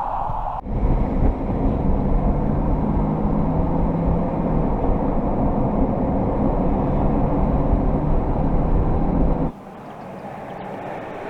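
BMW X6 M50i's twin-turbo V8 exhaust running at a steady idle. It cuts off sharply about nine seconds in, leaving a quieter engine sound.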